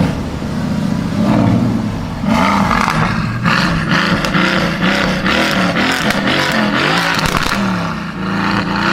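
Mercedes with a very loud exhaust, its engine revved up and down again and again, with sharp crackling pops from about two seconds in.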